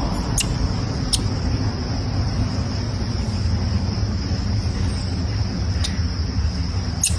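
Outdoor forest ambience: a steady, high-pitched insect drone over a low rumble, with four short, high bird chirps scattered through it, the last near the end.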